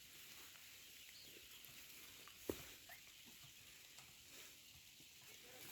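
Near silence: faint outdoor ambience with a steady high hiss, a single sharp click about two and a half seconds in, and a few faint chirps.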